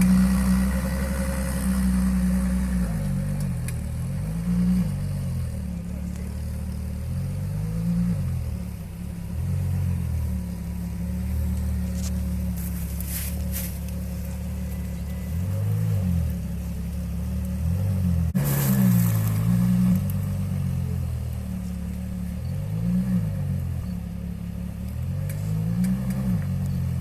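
Car engines running at low speed, their pitch rising and falling every few seconds as they are revved lightly, with a few brief higher-pitched noises.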